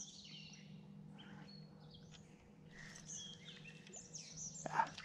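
Faint birds chirping and calling, with a low steady hum underneath and a short louder sound near the end.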